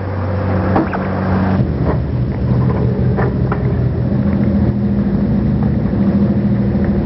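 Truck engine running steadily at idle, with a few light knocks in the first few seconds.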